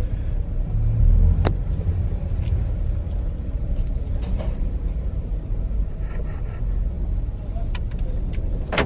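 Subaru Impreza G4 moving off slowly, a steady low rumble of engine and road noise heard inside the car, with a single sharp click about a second and a half in.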